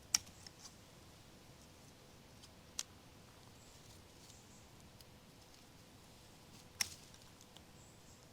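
Three sharp snaps a few seconds apart over faint hiss: herb stems being picked.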